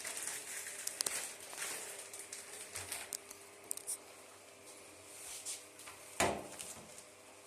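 Irregular rustling and light clicking handling sounds, with one sharp knock about six seconds in.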